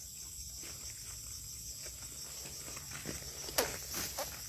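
Steady chirring of crickets or other night insects. About three and a half seconds in, a few sharp snaps: burning wood crackling in the campfire.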